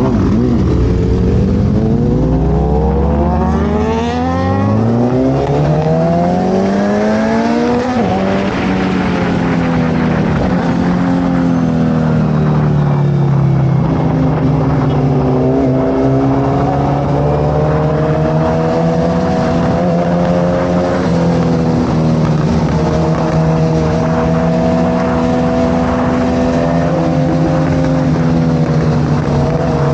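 Suzuki Hayabusa's inline-four engine through a Brock's carbon full exhaust, accelerating hard: the pitch climbs twice in the first eight seconds, dropping at each gear change, then holds a steady cruise with small rises and falls in engine speed.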